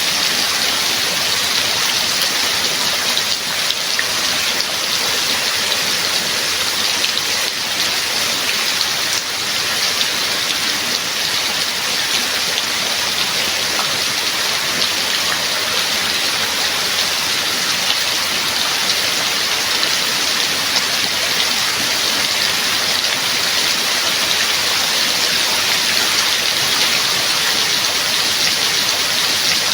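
Steady rain falling, a continuous even hiss of many drops with no thunder.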